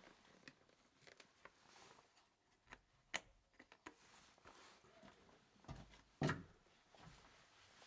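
Quiet, scattered clicks and knocks, with one louder knock about six seconds in.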